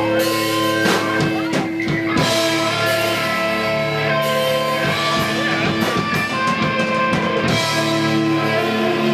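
Live punk rock band playing: electric guitar and drum kit.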